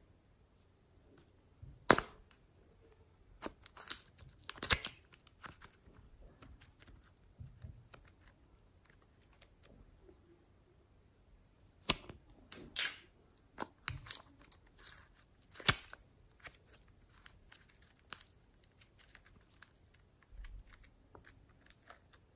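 Slime being squeezed and stretched by hand, giving irregular sharp pops and crackles, the loudest about 2 s in and again around the middle and two thirds of the way through.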